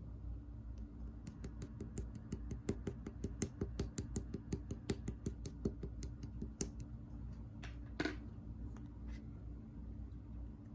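Clear slime being pressed and worked by hand, giving a quick run of small crisp pops and clicks, about five a second for several seconds, then one longer squelch near the end.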